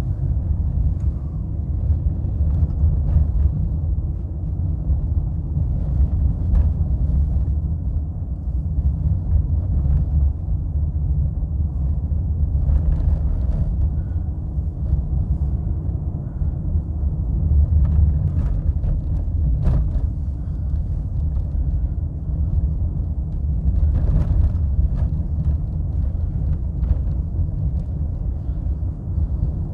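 Steady low rumble of a car driving on snowy city roads, heard from inside the cabin: engine and tyre noise with a few faint clicks scattered through it.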